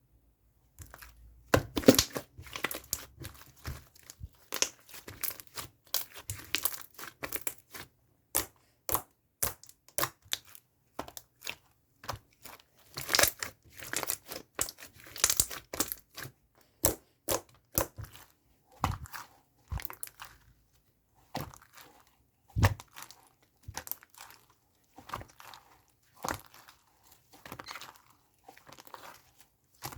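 Hands kneading and pressing a slime, giving a quick, irregular run of crackling pops, clicks and crunches that starts about a second in.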